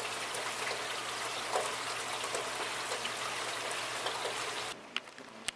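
Heavy rain falling steadily, with scattered drips and splashes. It stops abruptly about four and a half seconds in, followed by two sharp clicks.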